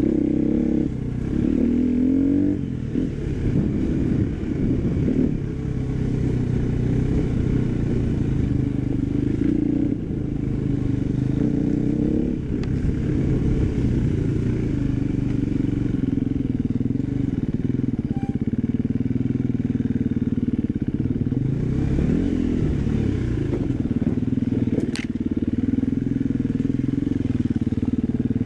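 Husqvarna FE 250 single-cylinder four-stroke enduro motorcycle engine running while ridden, its revs rising and falling with the throttle.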